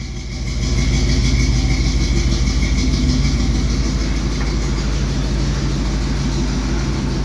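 1971 Chevy C10 pickup's engine running through Thrush mufflers shortly after a cold morning start, getting louder about half a second in and then holding a steady, even note.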